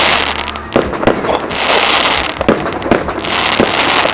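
Fireworks display: shells bursting in sharp bangs every second or so, with stretches of crackling hiss between the bangs.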